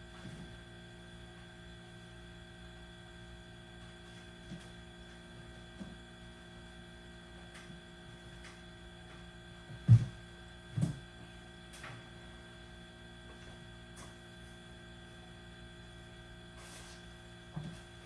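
Steady electrical hum with a few scattered knocks, two louder thumps about ten and eleven seconds in.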